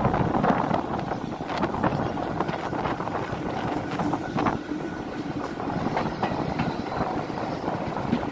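Railway passenger carriage running along the track, heard from an open window: a steady rumble of wheels on rail with irregular clicks.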